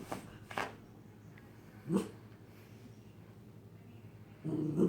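Cocker spaniel puppy vocalising in frustration at her bone: one short yelp about two seconds in, then a longer low grumbling growl near the end, with a couple of light clicks at the start.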